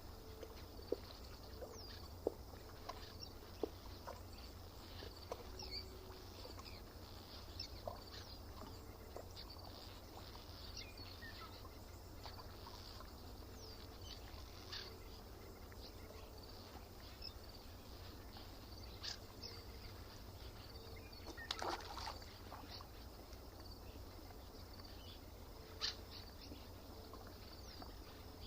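Lakeside dawn ambience: scattered short bird chirps and calls over a steady low rumble, with small clicking water sounds at the shore. A brief, louder cluster of clicks comes about three quarters of the way through.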